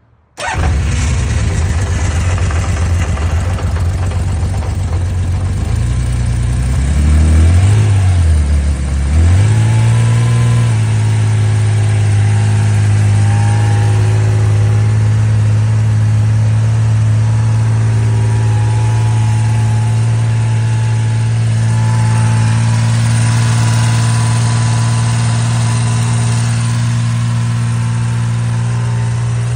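Honda CBX's six-cylinder engine catching almost at once from cold on choke, then running at a fast idle. The revs rise and dip a couple of times around eight seconds in, after which it holds a steady, slightly higher choke idle.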